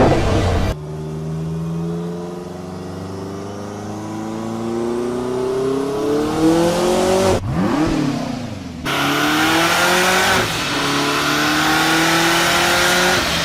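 Hennessy Venom F5's twin-turbocharged V8 accelerating hard, its pitch rising steadily for several seconds at a time. About halfway through the pitch drops and climbs again quickly, and the sound cuts abruptly between shots.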